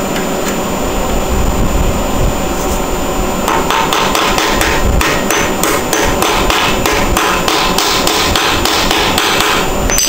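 Hammer blows tapping a drive pulley onto the crankshaft of a Briggs & Stratton lawn tractor engine. There is a quick run of sharp strikes, about three a second, starting about a third of the way in and stopping just before the end.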